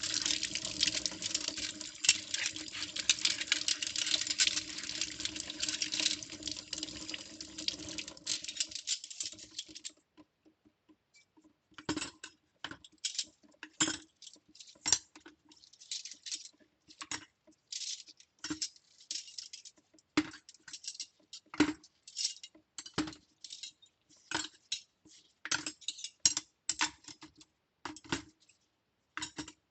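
Kitchen tap running into a sink, shut off about a third of the way in. After it stops, metal utensils clink and clatter in a series of separate knocks, one or two a second.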